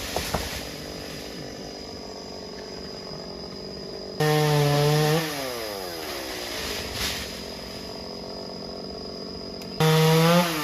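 Chainsaw throttle blipped twice, about five seconds apart. Each time the engine revs up suddenly for about a second, then falls back in pitch toward idle.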